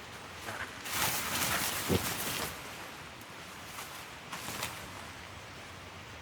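Bursts of rustling and crinkling over a steady background hiss, loudest between about one and two and a half seconds in, with a single dull knock near two seconds and a few smaller crackles later.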